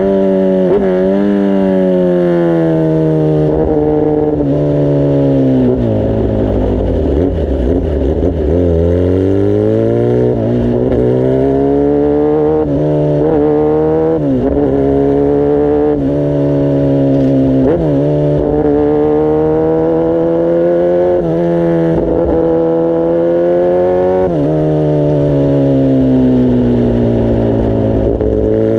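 Kawasaki ZX-10R inline-four engine under way, its exhaust note climbing through the revs with several sudden drops in pitch as it shifts up through the gears. Near the middle the pitch sinks slowly as the bike slows, then rises again as it pulls away.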